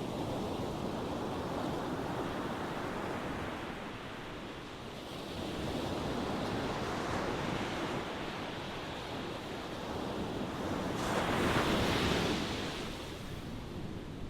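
Ocean waves breaking and washing on the shore, swelling and ebbing, with the loudest wave crashing about eleven to thirteen seconds in.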